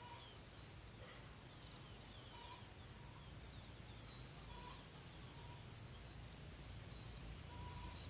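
Faint songbird calls: many short, high chirps and quick falling whistles, with a few brief lower notes mixed in, over a steady low background rumble.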